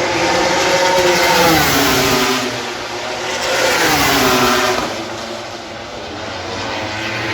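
MotoGP race bikes passing at speed, twice: each engine note swells and then falls in pitch as the bike goes by.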